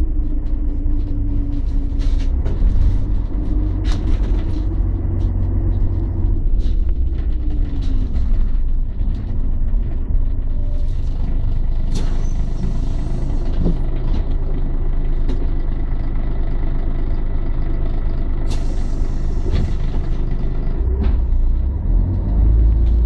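Scania L113 city bus's 11-litre six-cylinder diesel engine running, its pitch dropping about eight seconds in and then holding steady. Near the end comes a hiss of released compressed air lasting about a second, and the low rumble grows just before the end.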